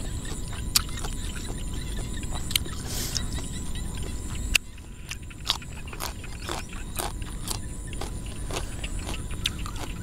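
Close-up chewing of crunchy raw vegetables, heard as many short crisp clicks and crunches, over a steady high-pitched pulsing trill from the field and a low rumble that drops away suddenly about halfway through.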